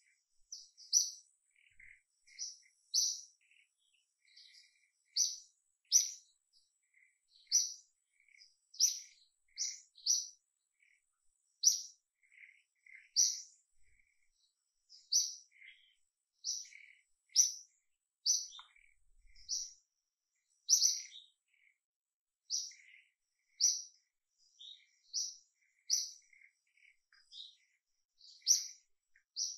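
A bird repeating a short, high chirp about once a second, with fainter, lower chirps in between. A faint, steady, high-pitched tone runs underneath.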